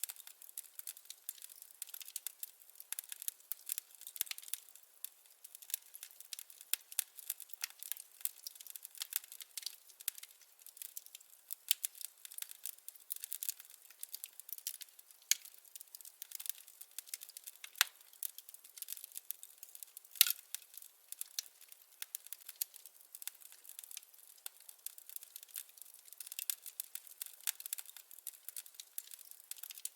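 Wood fire crackling: a dense, irregular run of sharp snaps and pops, with no low roar beneath them, and a louder pop about twenty seconds in.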